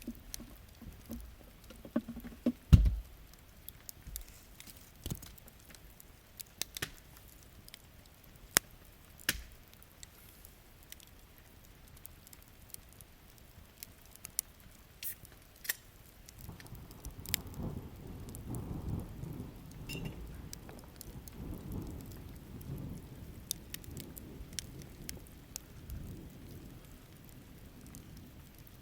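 Wood campfire crackling with scattered sharp pops, and a loud low thump about three seconds in. From about halfway, low rolling thunder rumbles on under the crackle, with faint rain in the background.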